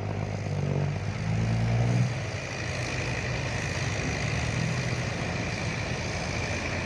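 Diesel dump truck engine running under load with a steady low drone, which eases off about two seconds in and settles to a steadier, quieter running.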